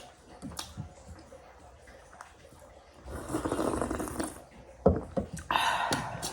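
Close-up eating sounds of a meal of rice, greens and gundruk soup: a noisy slurp about three seconds in, a sharp knock near five seconds, and another short slurp just after.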